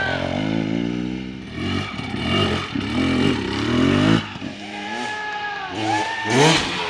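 Dirt bike engines revving up and down in short bursts, the pitch rising and dropping repeatedly as riders work the throttle, with more than one bike audible toward the end.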